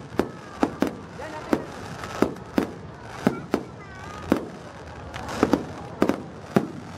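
Aerial fireworks shells bursting overhead in an irregular run of sharp bangs, about two a second.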